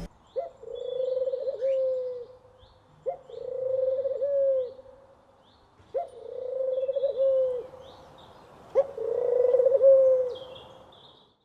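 A dove cooing in four repeated phrases about three seconds apart, each a short rising note followed by a long wavering coo that falls at the end, with faint high chirps of small birds behind.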